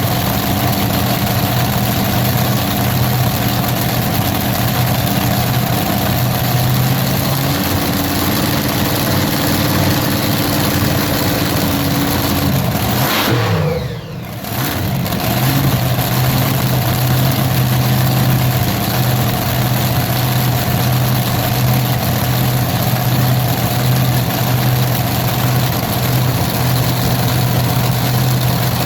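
A large engine running steadily at a loud idle. About thirteen seconds in, its pitch sags and the sound dips briefly before settling back to the same steady running.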